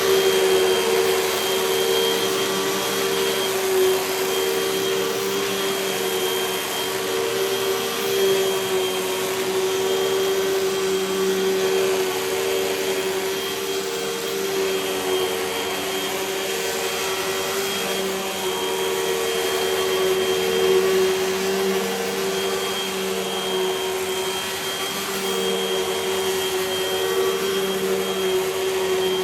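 Hoover WindTunnel High Performance Pet upright vacuum cleaner running steadily at full speed, a constant motor hum with a faint high whistle over the rush of air.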